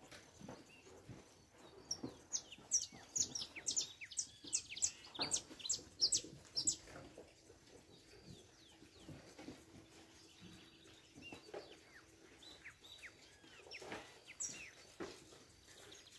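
Wild birds calling outdoors: a quick run of sharp, high, falling whistles about two seconds in that lasts a few seconds, then scattered softer calls.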